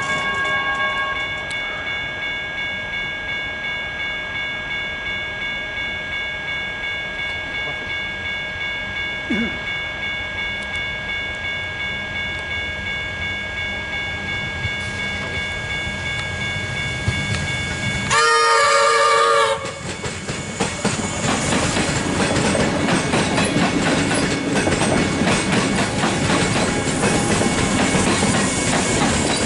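Melbourne Comeng electric suburban train: a steady high whine with a faint regular clatter from the tracks. Just past halfway, a train horn sounds once for just over a second, the loudest sound here. Then the train passes close, with rising wheel-on-rail rumble and clickety-clack.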